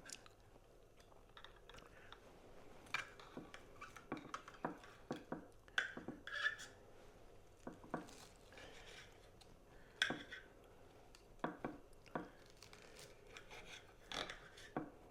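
Knife and fork cutting into a crispy breaded chicken cutlet on a plate: faint scattered clicks and short scrapes of cutlery against the dish.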